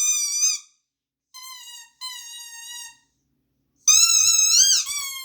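Rubber duck squeaky toy squeezed in long, steady, high squeals. A loud squeal ends about half a second in, two fainter, slightly lower squeals follow between about one and three seconds, and another loud squeal starts at about four seconds, wavering and dropping in pitch near the end.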